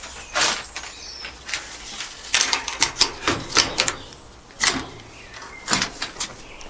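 A rapid, irregular series of sharp clicks and knocks, about a dozen, bunched in the middle.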